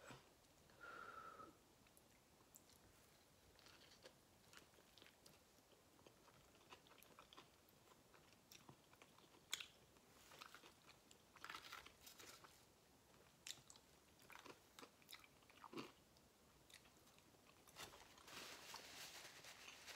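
Faint close-up mouth sounds of someone eating soft cheese enchiladas: wet chewing clicks and smacks every second or so. A paper napkin rustles near the end.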